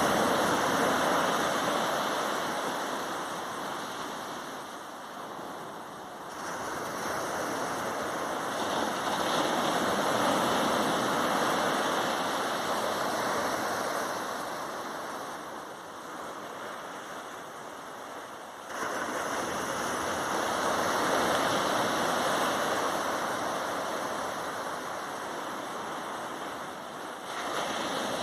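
Sea waves breaking on a sandy beach: a continuous wash of surf that swells and fades. A fresh surge comes in sharply roughly every ten seconds, three times.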